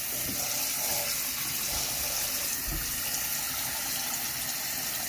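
Tap water running steadily into the wash tub of a twin-tub portable washing machine, filling it for the rinse cycle.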